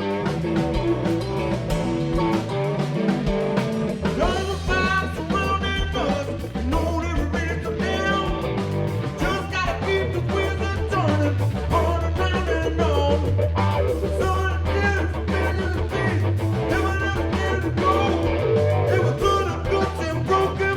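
Live rock band playing an instrumental passage: guitar lines over drums, with the bass coming in strongly about four seconds in.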